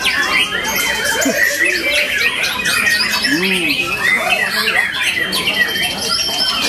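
White-rumped shama (murai batu) singing a fast, unbroken stream of varied chirps, whistled glides and harsh squawking notes, in the shrike-like style its keepers call 'cendet'.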